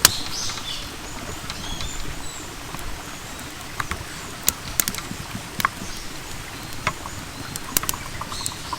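Small birds chirping in short phrases, near the start, about two seconds in and again near the end, over a run of irregular sharp clicks.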